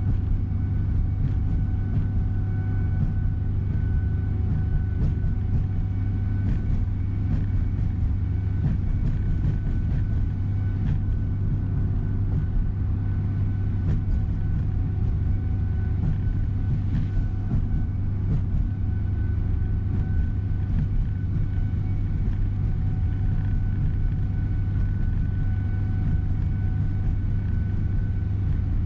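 Steady low drone of a tour coach's engine and road noise heard from inside the passenger cabin while cruising, with a faint steady whine over it.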